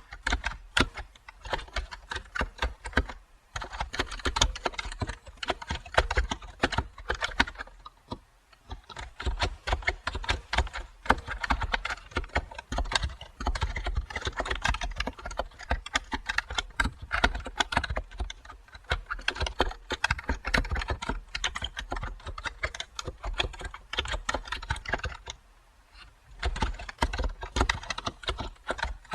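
Computer keyboard being typed on in fast runs of key clicks, with brief pauses between bursts.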